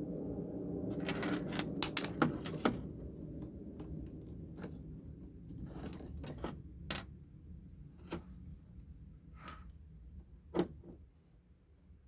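Small clicks and clinks of tools and parts being handled on a workbench, busiest about two seconds in, with one sharper knock near the end, over a low hum that fades away.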